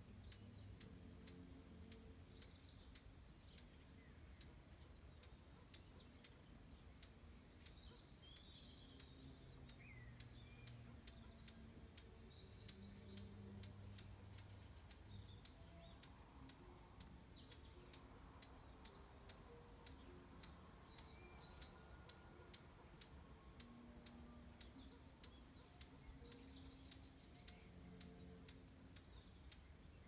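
Faint outdoor ambience: small birds chirping now and then, over a steady run of soft clicks about two a second, with faint low held notes beneath.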